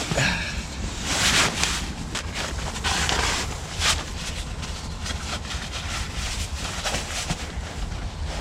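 Wind buffeting the microphone, a steady low rumble under a wash of noise, with a few brief swishing rushes about one, three and four seconds in.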